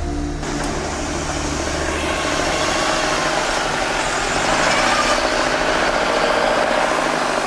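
Modified UAZ 4x4 engine running as the vehicle drives through deep mud. A low engine hum at the start gives way to a broad, louder rush that builds over the first few seconds.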